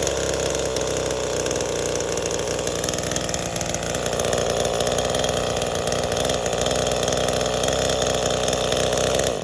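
V-Modest 2511T, a clone of the Echo 2511T top-handle chainsaw, its small two-stroke engine running steadily, then cutting off abruptly at the very end. The carburetor is set rich, "turned way out", and the saw "definitely likes fuel".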